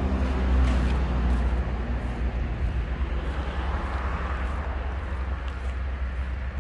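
KiHa 40/47 diesel railcar of the Futatsuboshi 4047 train running, a steady low engine hum under rumbling noise.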